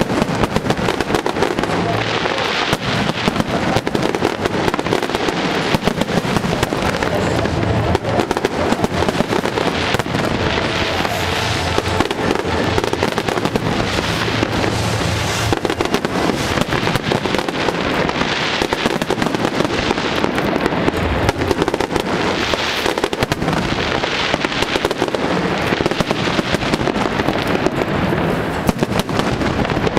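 Aerial fireworks show: a continuous barrage of shells bursting, with dense overlapping bangs and crackling that never pauses.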